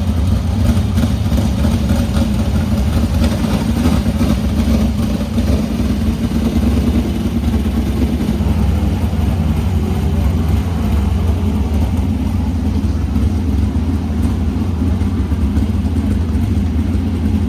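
410 sprint car V8 running steadily while the team checks its oil, which has been blowing out through the breather.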